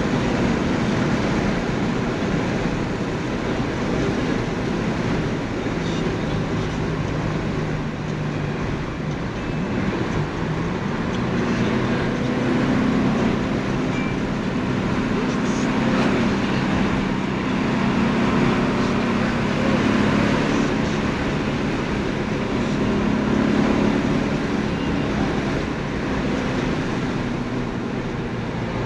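Porsche 928 S V8 engine running under way, heard from inside the cabin over steady tyre and road noise. The engine note rises and falls a few times as the revs change.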